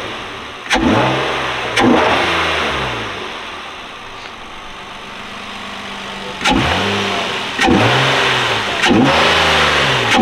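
2018 Nissan Maxima's 3.5-litre V6, breathing through a Stillen dry-flow cold-air intake, blipped from idle. Two sharp revs come near the start and three more in the second half, and each one falls back in pitch towards idle.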